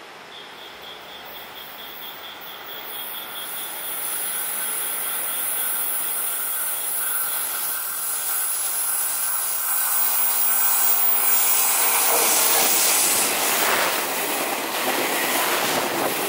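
Passenger train hauled by an electric locomotive approaching and growing steadily louder, with a steady wheel squeal as it rounds the curve into the station. Near the end come the rapid knocks of wheels over rail joints as the coaches pass close.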